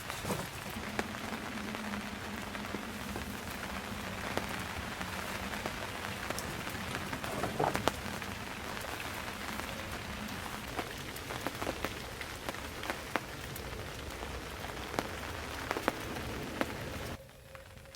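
A fire burning in a fire pit: a steady hiss with scattered crackles and pops. The sound drops away abruptly near the end.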